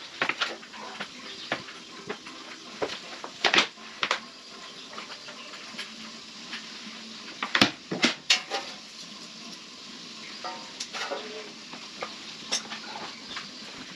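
Scattered sharp metallic clinks and knocks of metal tools and parts being handled, loudest a few seconds in and again around the middle.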